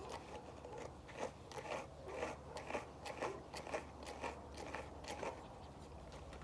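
A brush raked in quick repeated strokes through a bichon frise's curly coat, about two strokes a second, each a short crackling scratch as the bristles pull through the hair.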